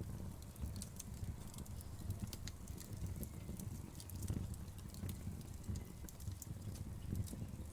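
Fireplace fire crackling: irregular sharp pops and snaps over a low, steady rumble of the flames.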